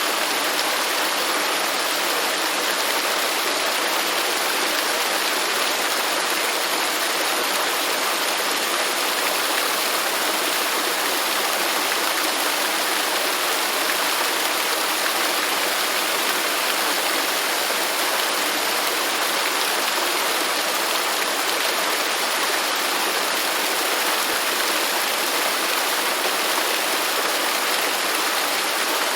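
Waterfall: water falling and splashing in a steady, unbroken rush, mostly hiss with little low rumble.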